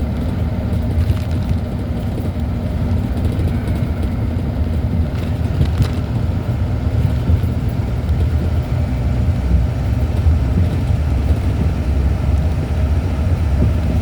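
Steady engine and road noise of a vehicle on the move, heard from inside the cab: a continuous low rumble with a faint engine drone.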